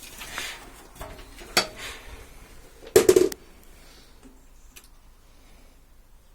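A few scattered metallic clicks and knocks, the loudest a brief clattering rattle about three seconds in.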